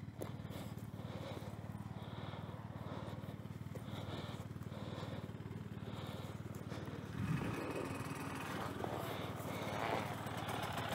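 Sherco enduro motorcycle engine idling steadily. A louder, noisier sound joins in about seven seconds in.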